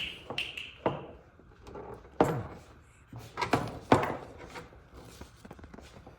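Knocks and clunks of metal parts being handled while propane hose fittings are connected. The first is a sharp metallic clink that rings for about a second, followed by four or five duller knocks.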